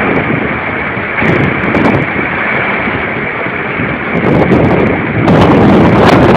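Strong storm wind gusting over the microphone as a loud, steady rush of noise that swells about four seconds in and grows louder again just after five seconds.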